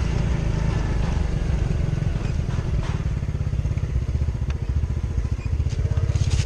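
Small motor scooter engine running steadily at low riding speed, with a few faint knocks.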